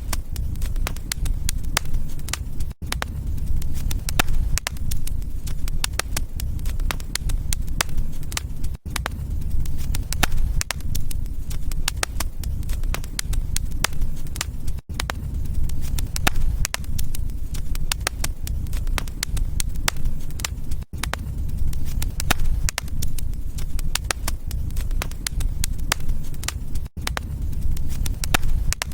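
Wood fire crackling in a fireplace: dense, irregular sharp pops and snaps over a steady low rumble. The sound drops out for an instant about every six seconds.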